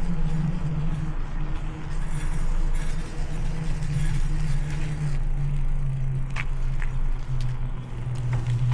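Steady low hum of a motor vehicle's engine, its pitch dropping slightly over the last few seconds, over road and wind noise, with two short high chirps about six and a half seconds in.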